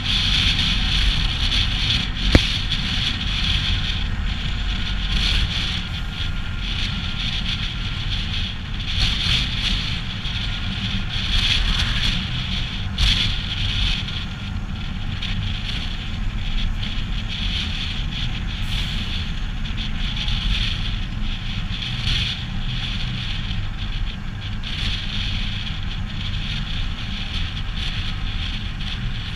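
Heavy truck's diesel engine running steadily, a deep rumble with a hissing wash over it that swells and fades, as of wind on the microphone. A single sharp click about two seconds in.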